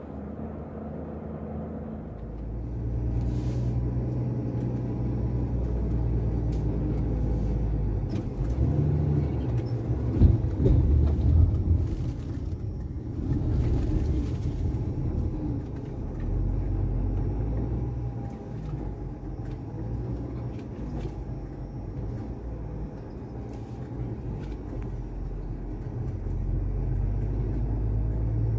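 A heavy vehicle's engine running steadily at low revs, getting louder about two seconds in. Loud knocks come around ten to eleven seconds in, and a short hiss about fourteen seconds in.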